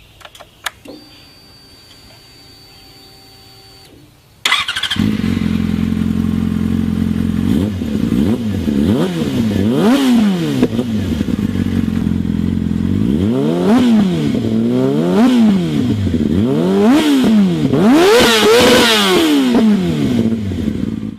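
2003 Yamaha R6's inline-four engine through a short off-road slip-on pipe with the muffler removed: after a few clicks and a faint steady hum, the engine starts about four seconds in, settles to a loud idle, and is blipped up and down again and again, the highest revs near the end.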